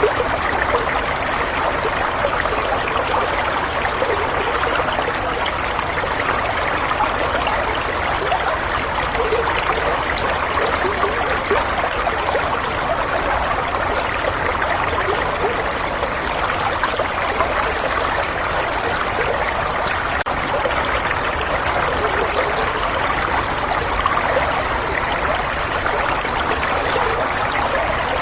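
Flowing water running steadily, an even trickling stream sound with no breaks or changes.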